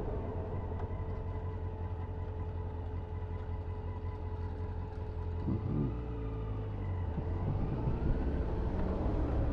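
Honda CBF motorcycle engine running on the move, a steady low rumble with a brief shift in engine note about five and a half seconds in.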